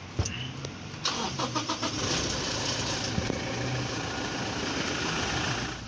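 Toyota Hilux 2.8-litre four-cylinder turbo-diesel started: the starter cranks about a second in, then the engine catches and runs steadily at idle. It is starting after the dusty sensor plug terminals behind codes P0100 and P0113 were cleaned.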